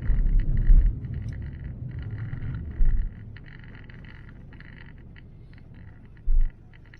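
Pickup truck rumbling as it rolls slowly over rough, wet ground, with a few dull low bumps; the rumble drops and grows quieter after about three seconds.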